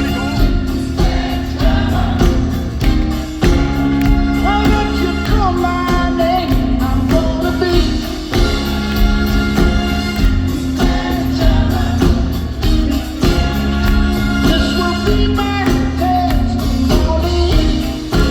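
Live rock band playing with a lead voice and backing vocals, over a steady bass and drum beat.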